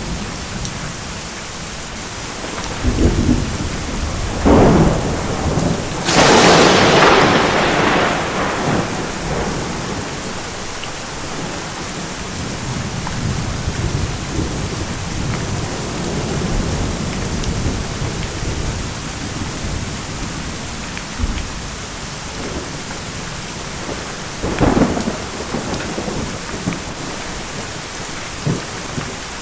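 Steady heavy rain with thunder: a couple of short claps a few seconds in, then the loudest crack about six seconds in that rumbles away over a few seconds, and another sharp clap near the end.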